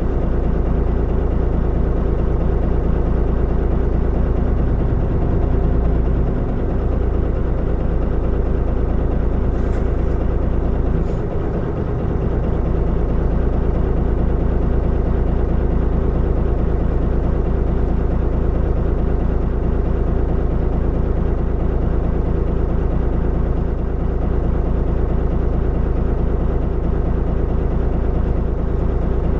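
Mitsubishi Fuso Aerostar city bus's diesel engine running steadily, with a short dip in level about eleven seconds in.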